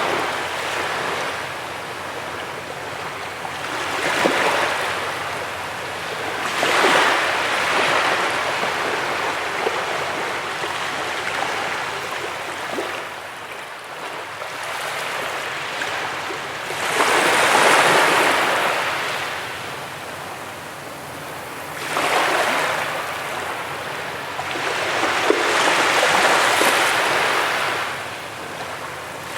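Sea waves breaking and washing up a beach, rising in hissing surges every few seconds and falling back between them, the biggest about 17 seconds in.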